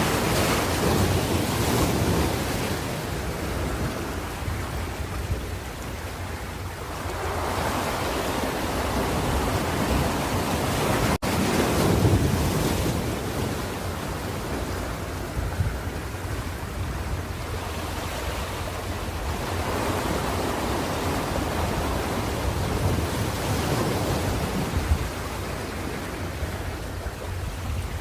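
Ocean waves breaking and washing onto the shore in slow surges every several seconds, over a steady low rumble of wind on the microphone. The sound cuts out for an instant about eleven seconds in.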